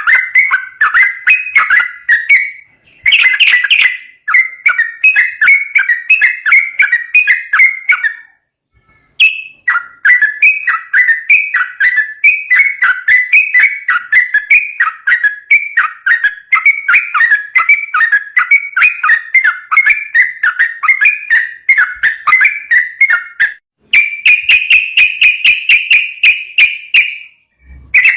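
Yellow-vented bulbul singing a fast, continuous chattering song of rapid repeated whistled notes, broken by two short pauses and ending in a steadier, higher trill near the end.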